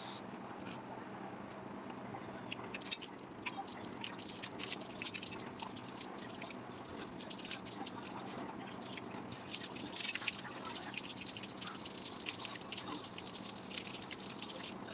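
Water dripping and trickling during plumbing work, with scattered small clicks and a sharper knock about three seconds in and another about ten seconds in.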